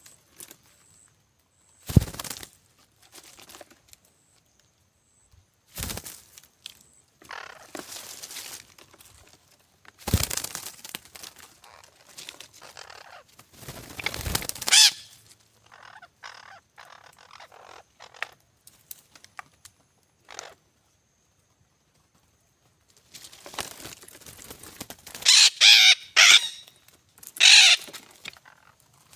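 Parrots calling in a string of loud squawks about three-quarters of the way in, with scattered knocks and rustling before.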